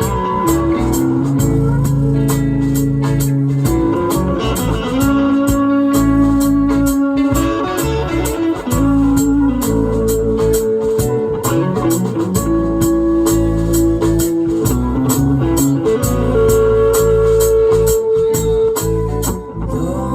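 A live band playing an instrumental passage led by guitar over long held notes, with a steady beat.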